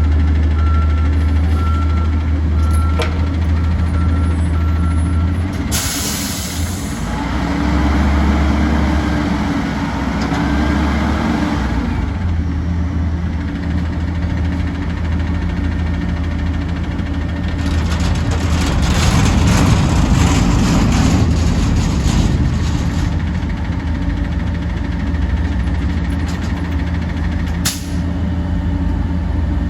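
Garbage truck's diesel engine running, with evenly spaced reversing beeps for the first five seconds or so, then a sharp air brake hiss. The engine then revs up and down, and later there is a longer, louder stretch of mechanical noise.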